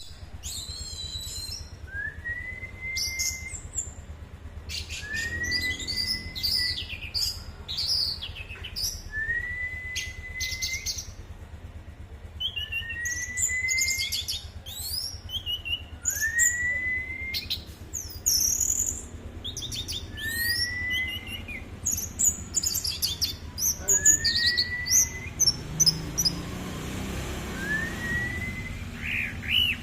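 Orange-headed thrush singing a lively, varied song of quick high twittering and whistled phrases, with a short rising whistle repeated every few seconds.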